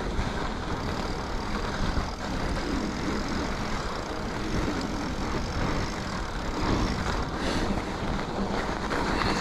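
Mountain bike riding over a groomed, packed-snow trail: a steady rush of wind on the microphone and tyre noise, with a few faint knocks.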